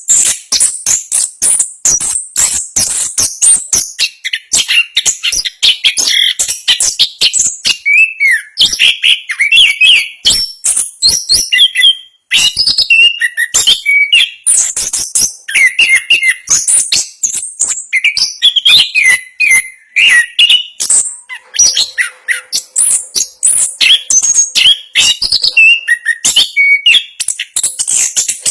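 Chestnut-capped thrush (anis kembang) singing a fast, dense rolling song of rapid high notes with hardly a break, pausing briefly about twelve seconds in.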